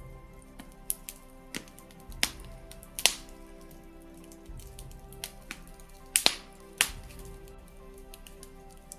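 Wood fire burning in a fireplace, crackling with irregular sharp pops and snaps, the loudest about three seconds in and a quick pair just after six seconds. Soft, slow background music plays underneath.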